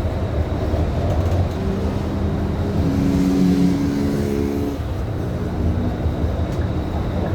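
Scania K310IB city bus under way: a steady low engine and road rumble, with a steady pitched hum added for about three seconds in the middle.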